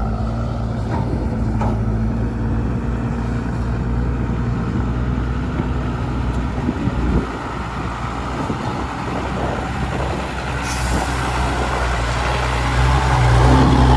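Loaded dump truck's diesel engine running steadily under load as the truck pushes forward. The engine eases off a little after halfway, a high hiss comes in about three-quarters through, and the engine note rises and grows louder near the end.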